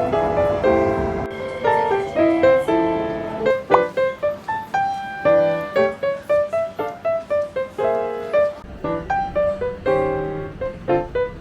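Background piano music, a light melody of quick separate notes with chords underneath.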